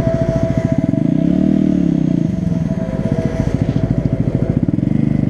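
Honda Grom's small single-cylinder engine running at low riding speed, its firing pulse steady, with a brief rise and fall in pitch just over a second in as the throttle is opened and eased off.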